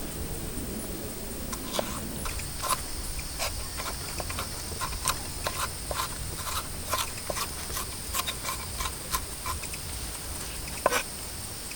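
Campfire crackling with irregular sharp pops, over a steady high-pitched chorus of night insects.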